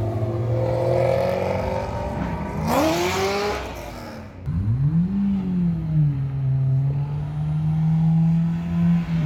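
Car engine revving: a quick rev about three seconds in, then the revs climb and are held steady for about four seconds before dropping near the end.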